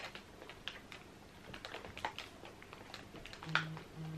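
Close-up mouth sounds of a man chewing a bite of crumb-topped blueberry muffin: scattered soft smacks and small crunchy clicks. Near the end there are two short, low hummed "mm"s.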